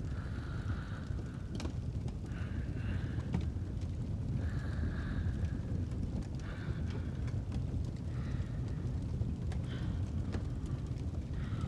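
Fireplace crackling with scattered small pops over a steady low rumble, with soft breaths recurring every second or two.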